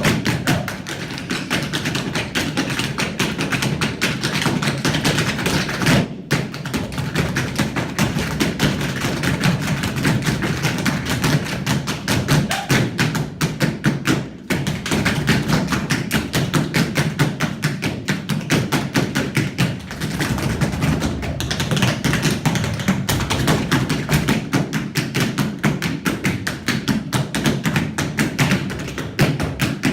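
Tap dancing in tap-fitted work boots: a fast, dense, unbroken run of tap strikes and heavier stomps on the floor, with a brief break about six seconds in and another about fourteen seconds in.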